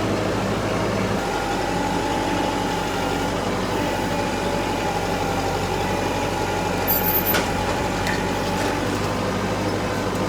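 Tractor engine running steadily, with a steady whine joining about a second in and a sharp click about seven seconds in.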